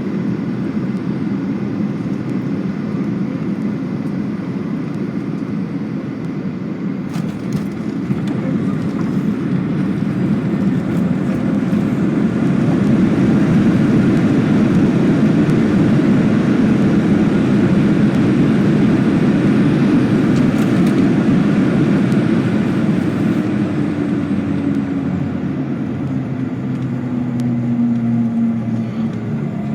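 Boeing 737-800's CFM56-7B engines and airframe heard from inside the cabin during landing: steady loud rumble, a few knocks about seven seconds in as the wheels touch down, then the engine noise swells for about ten seconds under reverse thrust before easing off with a falling whine as the jet slows on the runway.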